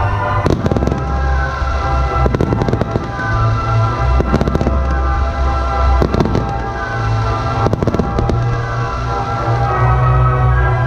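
Aerial fireworks shells bursting, sharp bangs coming in clusters about every two seconds, over loud music with a heavy bass line.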